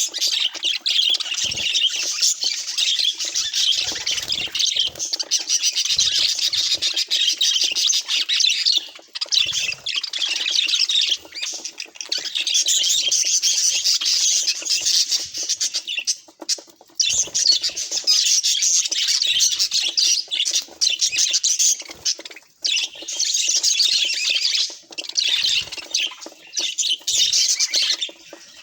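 Budgerigars chattering and warbling in dense runs of several seconds, with short breaks between them.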